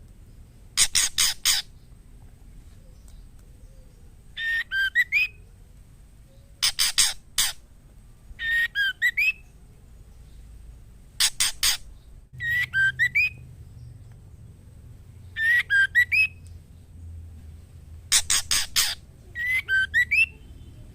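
Female white-rumped shama calling, the calls of a female in breeding condition calling for a male. Quick runs of harsh rasping notes alternate with short whistled phrases of rising and falling notes, a new call every two seconds or so.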